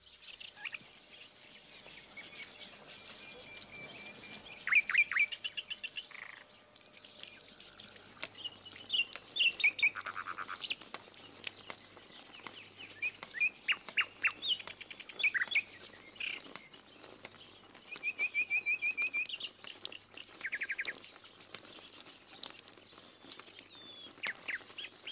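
Small songbirds chirping and trilling: many short high calls, quick trills, and now and then a run of evenly spaced repeated notes.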